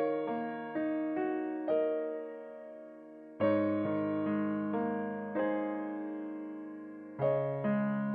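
Background music: slow, gentle piano playing single notes over sustained chords, each note struck and left to ring and fade.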